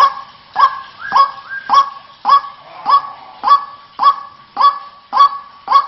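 White-breasted waterhen (ruak-ruak) calls repeated at an even pace of just under two a second, each a short, sharp note. This is the recorded call used as a lure to draw the birds in.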